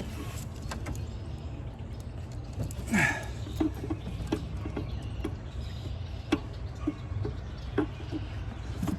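Wrench working against a seized nut on a Ford F-150's EGR valve: scattered short metal clicks and knocks, with a strained grunt about three seconds in.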